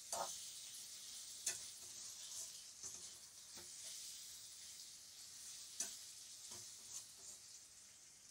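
Boiled eggs and masala sizzling faintly in a metal kadai while a metal spatula stirs them, clicking and scraping against the pan every second or so.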